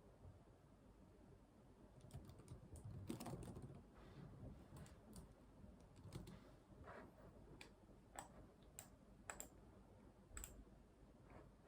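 Faint, irregular typing on a computer keyboard: a short run of keystrokes about two seconds in, then scattered single key clicks with pauses between them.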